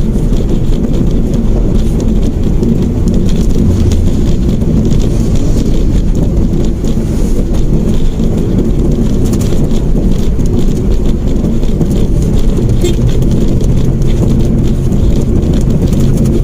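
Mitsubishi Mirage hatchback driving along a road: a steady, loud low rumble of road and engine noise.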